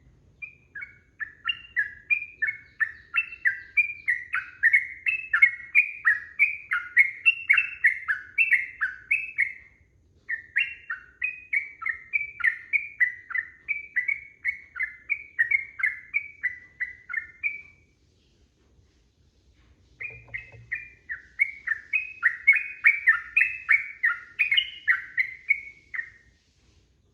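Yellow-vented bulbul singing long, rapid strings of chirped notes, about three or four a second. The song comes in three bouts, with brief pauses about a third of the way in and again about two-thirds of the way in.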